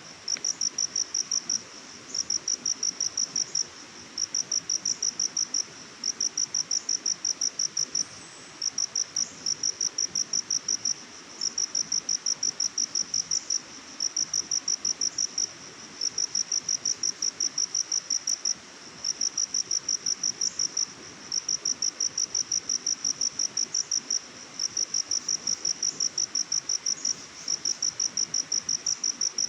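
Cricket chirping: a high, rapid pulsed trill in repeated trains about a second and a half long, with short breaks between, over a faint steady background hiss.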